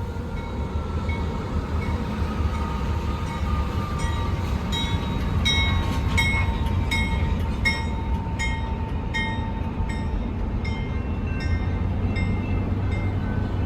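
Diesel freight train moving slowly, with a steady low engine rumble. From about four seconds in, a bell rings about once every 0.7 seconds and grows fainter near the end, and in the first half a faint high whine slowly falls in pitch.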